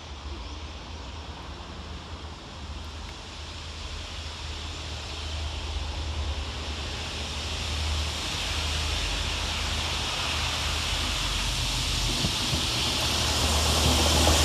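Network Rail railhead treatment train approaching. A low rumble and a hiss grow steadily louder as it nears.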